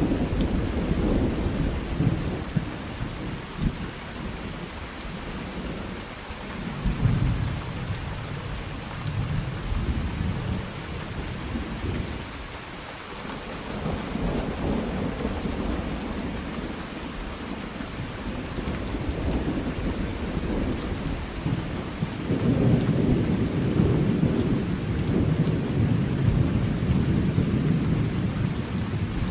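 Steady rain falling, with rolling thunder rumbling under it; the thunder swells around seven seconds in and rumbles loudest for several seconds near the end.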